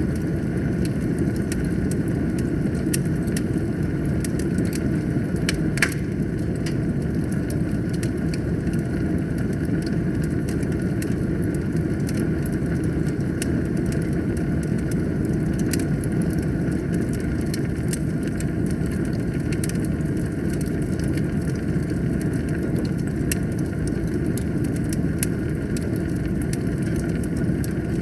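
Wood fire burning in a fireplace: a steady low rumble of flames with scattered crackles and pops, and one louder pop about six seconds in.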